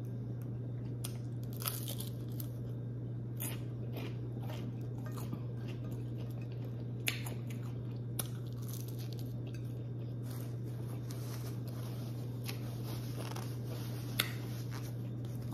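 A person biting into and chewing fried whiting fish in a crisp fish-fry coating, with scattered small crunches and mouth clicks. A steady low hum runs underneath.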